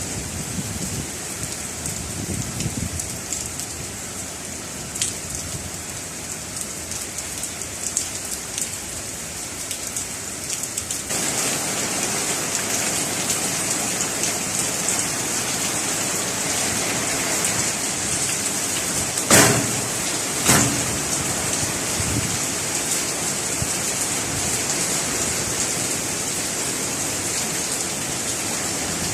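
Heavy rain falling steadily. It turns heavier and louder about eleven seconds in, with two sharp knocks a little over a second apart near the middle.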